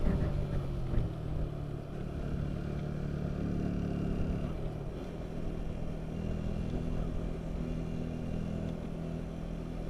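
Motorcycle engine running steadily while riding, with low road and traffic noise; the engine note shifts slightly about four to five seconds in.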